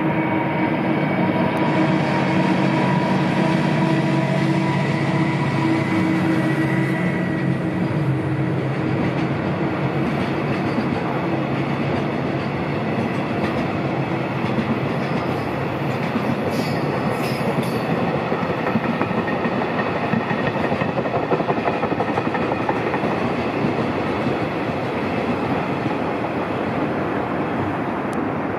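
A JR Freight DF200 diesel-electric locomotive runs past hauling a container freight train. Its engine hum fades over the first several seconds, leaving the steady rolling and clatter of the wagons' wheels on the rails.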